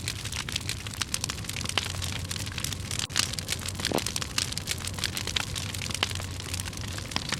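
Campfire of dry split firewood burning, crackling and popping with dense irregular snaps over a steady hiss. A low steady hum runs underneath.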